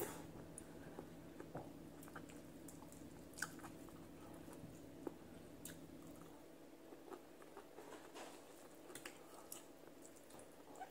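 Faint chewing and small mouth clicks of a person eating fried tilapia and rice by hand, over a low steady hum.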